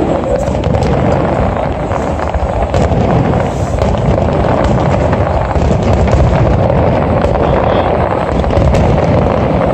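Fireworks display: a dense, continuous stream of crackling and popping bursts over a steady low rumble.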